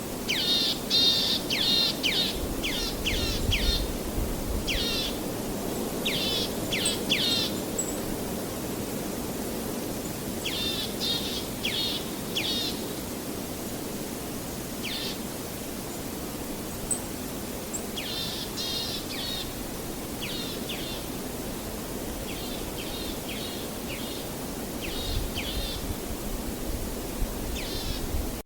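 Small birds singing in clusters of rapid, high chirping notes, repeated every second or two, over a steady rushing noise of waves.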